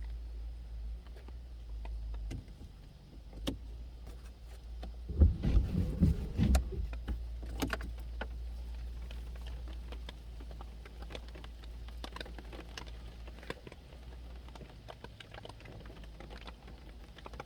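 Raindrops tapping irregularly on a van's roof over a steady low rumble. About five to seven seconds in comes a louder stretch of low thumps.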